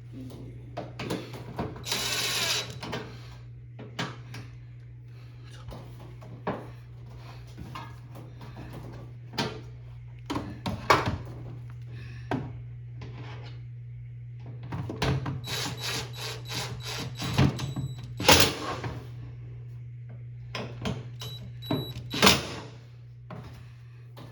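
Hand work on a front-loading washing machine's door seal: scattered knocks and clicks of tools and parts, a short rasping burst about two seconds in, and runs of quick, even clicks with a faint high whine around the middle and again near the end, over a steady low hum.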